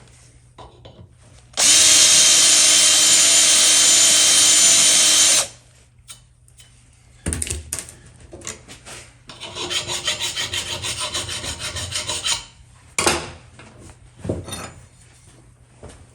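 An electric drill runs at steady speed for about four seconds, working the baffle's screw holes. Then come tool clicks, about three seconds of quick rhythmic rubbing strokes and a few knocks.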